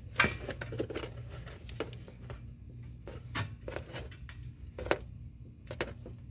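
Scattered light clicks and knocks of an exhaust hanger being handled and worked onto an exhaust pipe, over a steady low hum.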